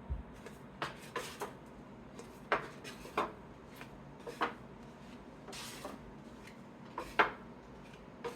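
Trading cards being handled and sorted by hand: irregular light taps and clicks as cards are set down, with a short rubbing slide about halfway through.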